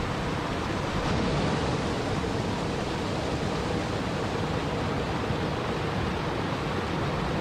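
Steady, even rushing of water, with no breaks or distinct events.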